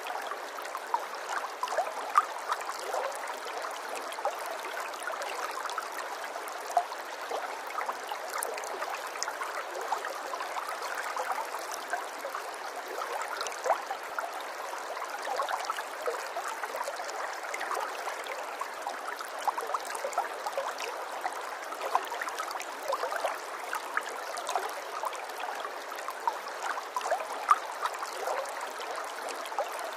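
Running water: a steady flow with many small splashes and drips scattered through it.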